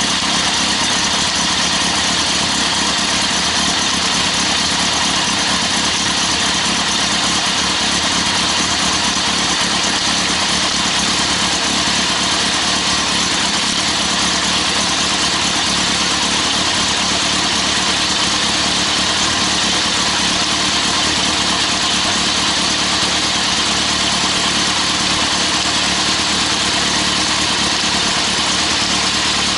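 Yamaha XJR1300's air- and oil-cooled inline-four engine idling steadily through an aftermarket Wyvern exhaust muffler, with no revving.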